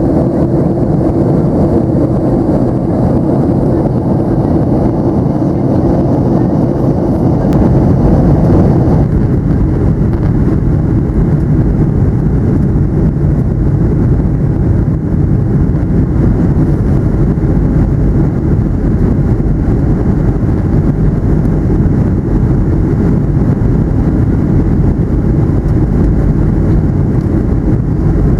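Cabin noise inside a Boeing 737-700 airliner: a loud, steady rumble of the jet engines and airflow. About nine seconds in, the higher part of the noise drops away, leaving the low rumble.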